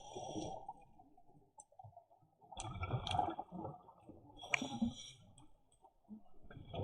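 Scuba regulator breathing underwater: hissing inhalations and bubbling exhalations in about four bursts, separated by quieter gaps.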